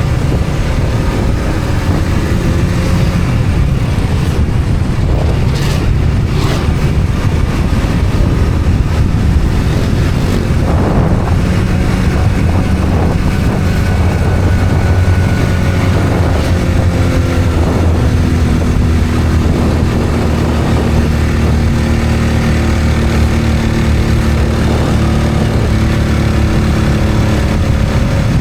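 Road vehicle on the move: a steady engine drone with road and wind noise, its pitch shifting a little as the speed changes.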